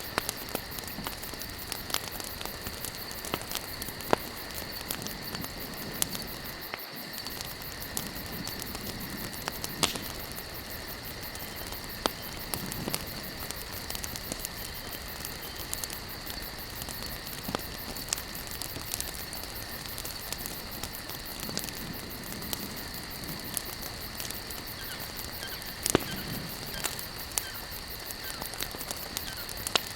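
Wood campfire burning, with a steady hiss and constant irregular crackles and occasional louder pops. Behind it runs a steady high-pitched drone of insects.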